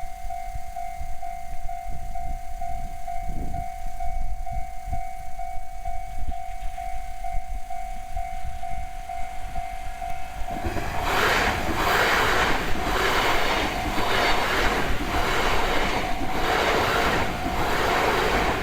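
Level crossing warning bell ringing with a steady, rapid ding. About ten seconds in, an E3 series Yamagata Shinkansen train passes close by at speed: a loud rush with a regular clatter of wheels over the rails, while the bell keeps ringing.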